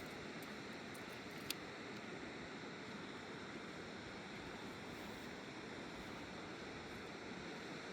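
Steady rushing of a mountain river, with one sharp click about a second and a half in.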